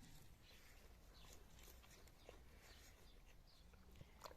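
Near silence: faint outdoor rural ambience with a few short, high chirps and small clicks scattered through it.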